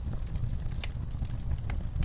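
Wood fire crackling in a fireplace: a steady low rumble of burning, broken by a few sharp snaps, two of them clearest near the middle and toward the end.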